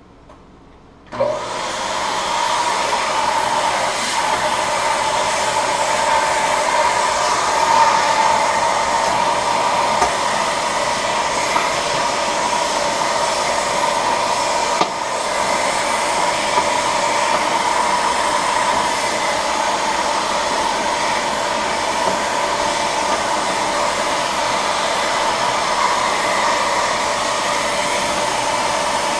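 Vacuum cleaner switching on about a second in and running steadily, sucking dust off a refrigerator's condenser coil, with a short dip near the middle as the nozzle moves.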